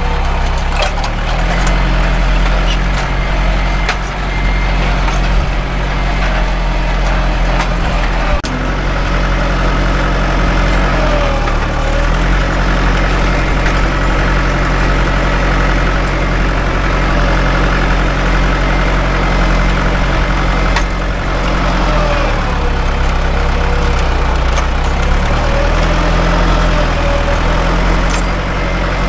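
Mahindra 575 DI tractor's diesel engine running steadily while pulling a nine-tine cultivator. Its note shifts briefly about a third of the way in and again around three quarters of the way through.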